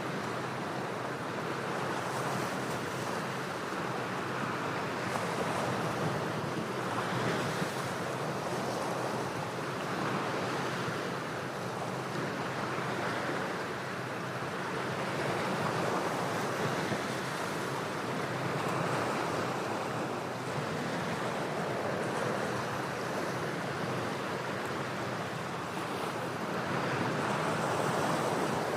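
Ocean waves breaking and washing against shore rocks, a continuous rush of surf that swells and eases every few seconds.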